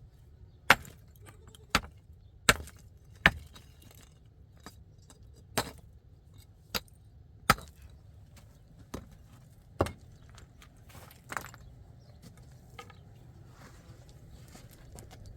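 A series of sharp chopping strikes, about ten of them at irregular intervals of roughly a second, fading to fewer and softer near the end, over a faint low rumble.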